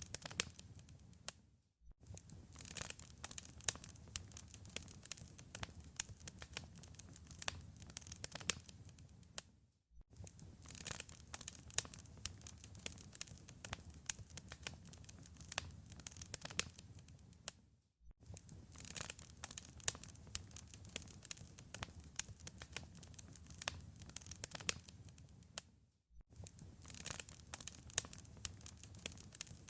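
Wood fire crackling in a fireplace: dense, irregular snaps and pops over a low rumble of flame. It cuts out to silence for a moment about every eight seconds, then resumes.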